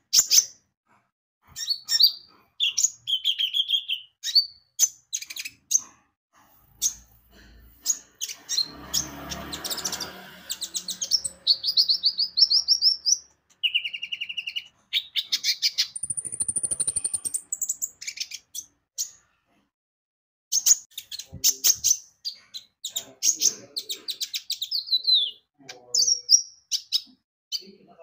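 Konin (kolibri ninja) sunbird singing in rapid bursts of high chirps, twittering trills and quick pitch sweeps. The song breaks off briefly about two-thirds of the way through. A rustling noise sounds under it for a few seconds near the middle.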